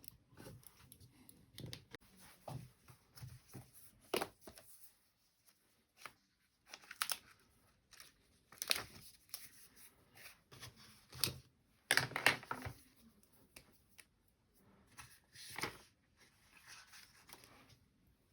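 A series of short rustling, crinkling handling noises at close range, some brief and some drawn out, the loudest about twelve seconds in.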